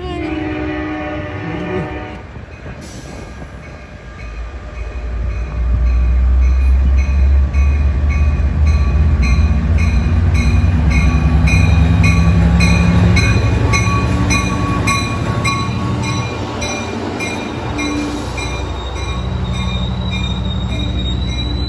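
A Sounder commuter train's horn sounds briefly and ends about two seconds in. Then an EMD F59PHI diesel locomotive pulls into a station with a heavy low engine rumble, a bell ringing about twice a second, and a high steady wheel squeal near the end as the bilevel coaches roll by.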